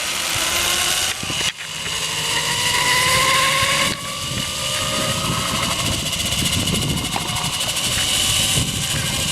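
Zipline trolley pulleys whirring along the steel cable over a steady rushing noise. The whine rises slowly in pitch over the first few seconds as the rider picks up speed.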